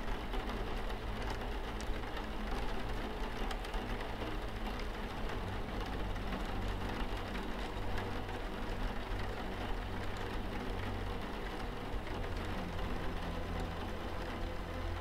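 Steady rain on a window pane: a dense, even hiss with many small drop ticks. A low, steady hum runs underneath.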